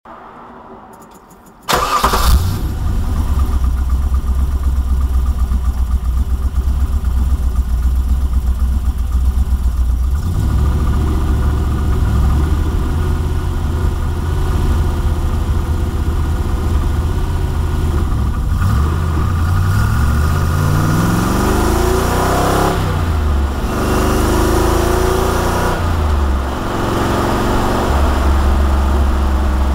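TVR V8 engine in a Lotus Esprit cranking briefly and catching about two seconds in, then idling steadily. In the second half it is revved up and let fall back twice before settling to idle again.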